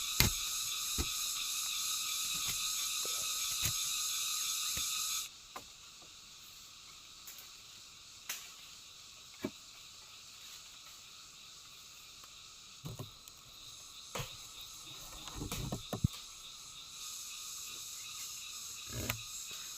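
A loud, steady chorus of forest insects buzzing for about the first five seconds, which cuts off suddenly. After that comes a quieter forest background with scattered clicks and a few knocks, most of them near the middle and end.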